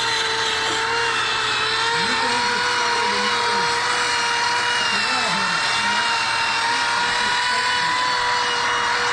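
High-speed power carving tool grinding wood, running with a steady high whine that dips slightly in pitch now and then as it bites.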